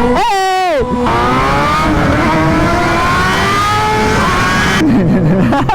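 Motorcycle engine at full throttle on a drag strip pass. The revs drop briefly about half a second in, then the engine pitch climbs steadily for about four seconds as it accelerates, and breaks up near the end.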